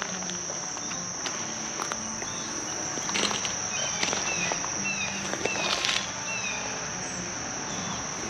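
Steady high-pitched buzzing of an insect chorus, crickets or similar, with a few short falling chirps and scattered clicks and knocks in the middle seconds.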